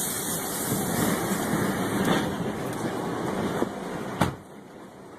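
Tornado wind rushing hard past the vehicle and over the microphone, a steady loud noise with no pitch. A sharp knock comes about four seconds in, after which the wind noise drops much quieter.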